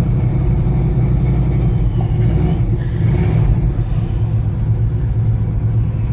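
1971 Ford F100's 302 small-block V8 idling steadily, less than half a minute after a cold start at minus 30, with oil pressure just coming up.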